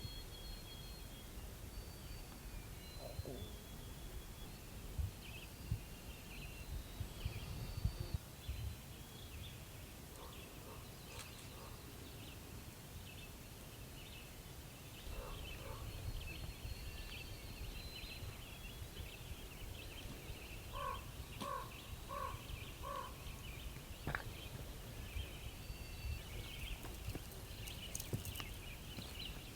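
Songbirds singing in the woods, with many short high chirps and trills throughout. About two-thirds of the way in comes a run of four evenly spaced lower notes. A low rumble and a few clicks lie underneath.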